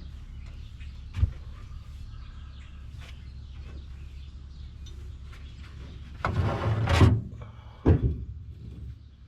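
Sheet-metal workshop handling sounds over a steady low hum: a sharp metallic knock about a second in, a loud harsh scrape lasting about a second around six seconds in, and another sharp knock soon after.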